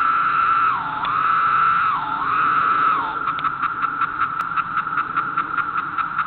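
Male periodical cicada calling at close range: a loud, steady buzzing tone that dips in pitch twice in the first three seconds, then breaks into rapid pulses about five a second.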